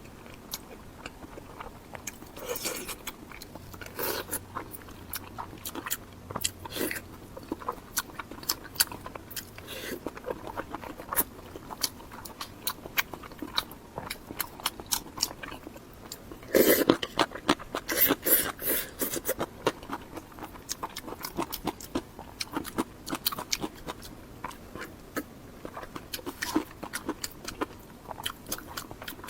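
Close-miked eating: chewing and biting with many small wet mouth clicks and crunches. There is a louder run of crunching about seventeen seconds in.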